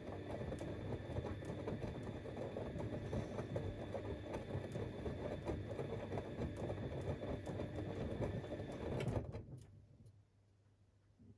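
Siemens Extraklasse XLs 140 A washing machine running with a steady churning noise and many small clicks and rattles. The noise stops abruptly about nine seconds in, leaving only a faint low hum.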